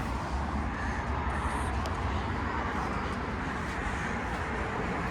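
Outdoor parking-lot ambience: a steady haze of traffic noise with a low rumble, and a few faint clicks.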